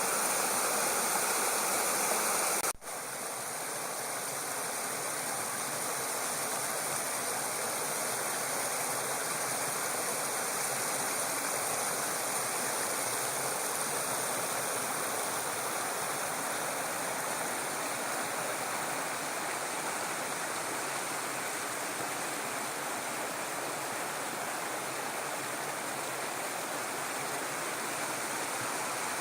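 Small waterfall on a stream pouring into a deep pool: a steady rush of water. A brief break about three seconds in, after which the rush carries on slightly softer.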